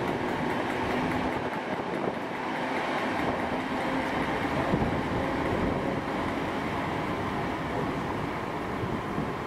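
ScotRail Class 318 electric multiple unit running along the track, with a continuous rumble of wheels on the rails and a faint steady hum in the first couple of seconds.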